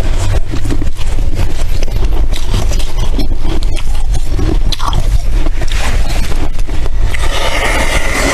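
Freezer frost crunching and squeaking close to the microphone, a dense run of crackles over a low rumble. A squeakier stretch begins about seven seconds in.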